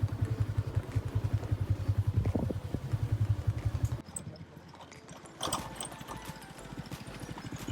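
Motorbike engine idling with a steady low putter, cutting off about four seconds in; a quieter engine putter follows near the end.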